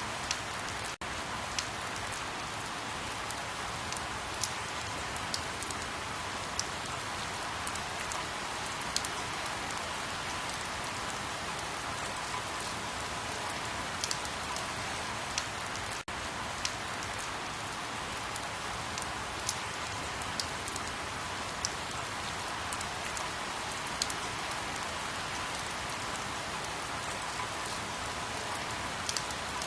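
Steady rain falling, an even hiss with scattered sharp drop ticks. The sound dips out very briefly twice, about a second in and about halfway through.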